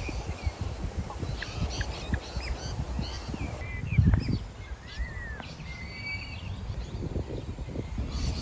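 Birds chirping and calling outdoors in short, scattered notes over a low, constant rumble, with a loud thump about four seconds in.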